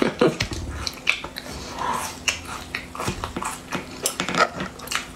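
Close-miked chewing and lip-smacking of spicy food, an irregular run of short wet clicks.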